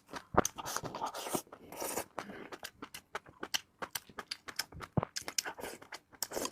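A person chewing and biting food close to the microphone, with many irregular crunches and clicks.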